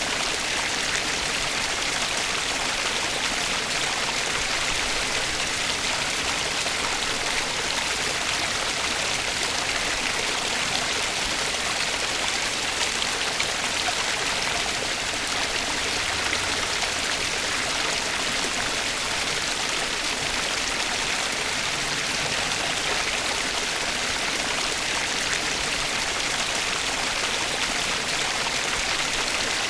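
Flowing stream water, a steady, even rush and babble of water that does not change.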